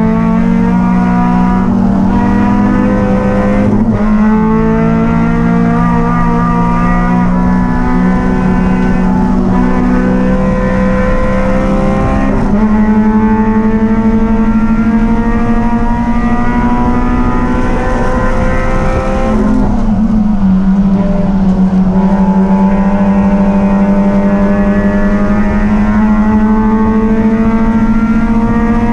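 Racing engine running hard under race conditions. Its pitch climbs steadily for several seconds at a time, then drops sharply, about three times, as the engine is held open and then backed off.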